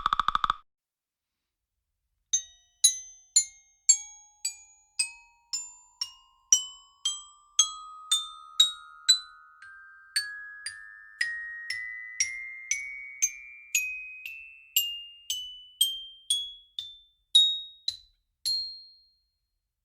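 Tuned mallet percussion playing a long, slow rising run: some thirty struck notes, about two a second, each ringing briefly, the pitch climbing step by step from low to high. Just before the run, a buzzing tone cuts off about half a second in.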